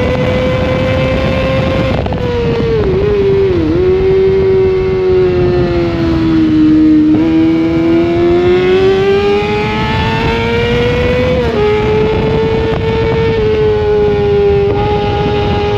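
Sportbike engine heard onboard at high revs. Its note drops about two seconds in, with two quick dips as it is shifted down, and sinks lowest around the middle. It then climbs steadily under acceleration and drops once more with an upshift near the three-quarter mark. Wind noise runs under it throughout.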